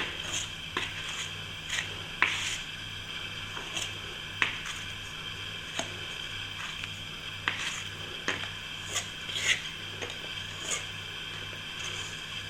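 Plastering trowel working plaster into a crack: irregular short metal scrapes and clinks, about one or two a second, over a faint steady low hum.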